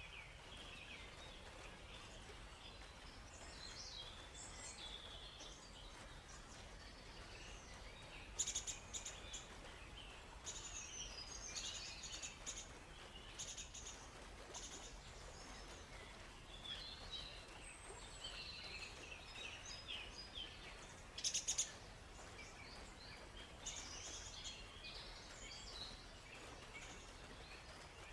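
Several small songbirds chirping and warbling, with two short rapid clicking trills, one about a third of the way through and one about three quarters through, over a faint steady background hiss.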